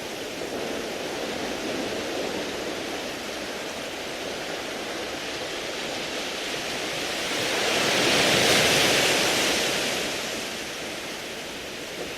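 Sea waves washing over a beach of smooth round pebbles: a steady wash of surf, with one wave swelling to its loudest about two-thirds of the way through and then falling away.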